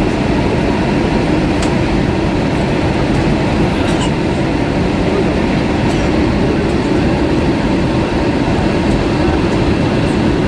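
Steady cabin noise inside an Airbus A320 airliner: an even rumble of engines and airflow, with a few faint ticks.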